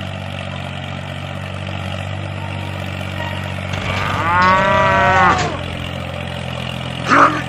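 A cow moos once, a long call that rises and falls in pitch about four seconds in, over the steady low hum of the mini tractor's engine. A short second call starts just before the end.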